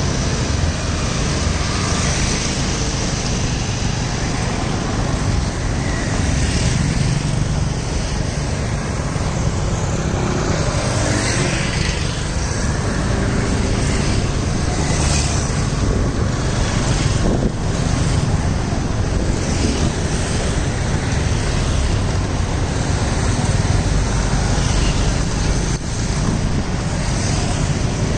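Continuous road traffic noise, a steady rumble and rush of passing vehicles.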